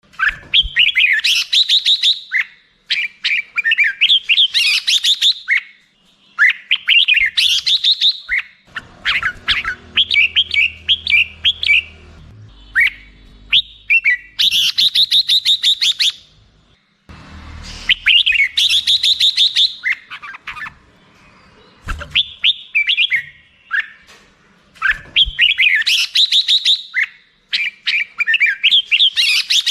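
Red-whiskered bulbul singing: loud, rapid chattering phrases about a second or two long, repeated with short pauses.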